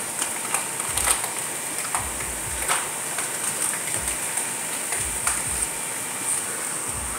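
Onion and chili paste frying in a non-stick pan: a steady high sizzling hiss, with a few light clicks and taps scattered through.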